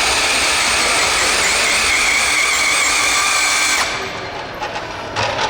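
RC pulling vehicle's motor and drivetrain whining at a steady high pitch under full throttle, then cutting off sharply nearly four seconds in.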